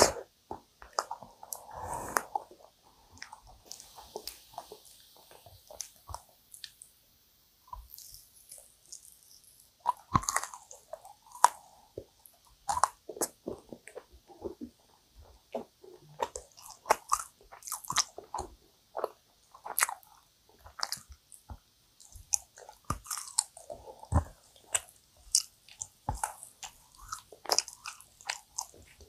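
Close-miked mouth chewing and biting yakgwa, a dense, sticky Korean honey cookie, with ice cream: a steady run of short wet clicks and crunches, with a brief lull about seven seconds in.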